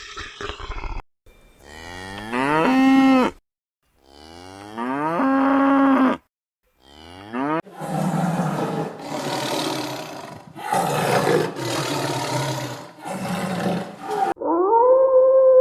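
A cow mooing twice, each moo rising in pitch and then holding steady, followed by about five rough, noisy calls of about a second each.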